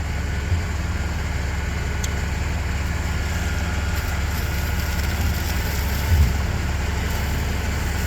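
A heavy engine idling steadily, with a brief low thump about six seconds in.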